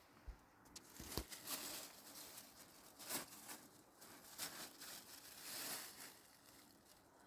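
Faint, irregular rustling and scraping handling noises, with a couple of sharp clicks or knocks about a second in.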